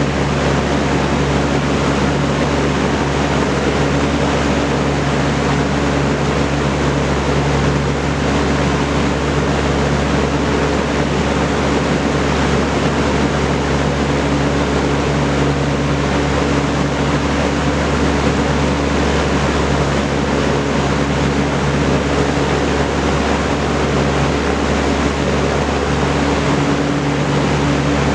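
Vintage Kenmore Roll-A-Matic 20-inch electrically reversible box fan with a four-blade propeller running steadily: an even rush of moving air over a low motor hum.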